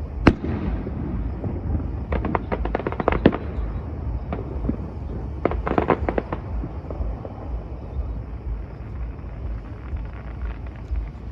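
Fireworks going off: a single sharp bang about a third of a second in, then two bursts of rapid crackling at around two to three seconds and around six seconds. These thin out to scattered faint crackles over a steady low rumble.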